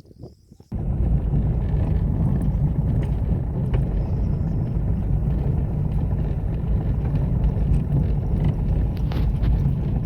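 Wind buffeting the microphone: a loud, steady, low rumbling noise that starts suddenly about a second in.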